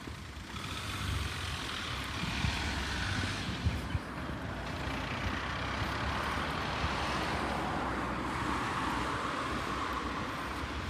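City street traffic: motor vehicles passing close by. The noise swells about half a second in and holds, with a faint whine that slides down in pitch.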